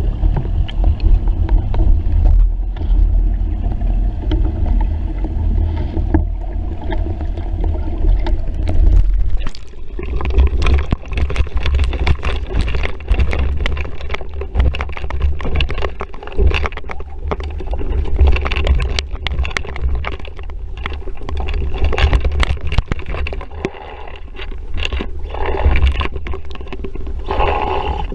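Wind buffeting the microphone over water rushing and splashing along the hull of an RS Vareo sailing dinghy under way in a breeze. From about ten seconds in, frequent sharp slaps of water and spray hit the hull.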